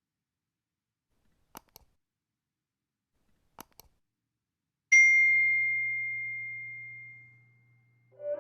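A single bright bell-like ding that starts suddenly about five seconds in and rings out, fading over about three seconds. It is preceded by two pairs of faint clicks.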